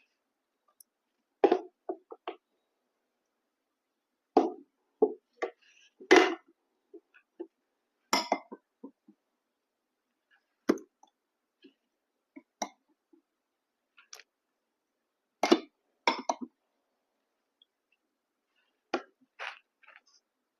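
Close-miked eating sounds: short wet mouth smacks and clicks of chewing, in brief clusters a couple of seconds apart with silence between.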